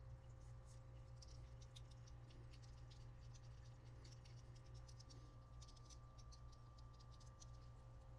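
Faint, scattered light clicks and scratches of small parts being handled by hand, over a steady low hum.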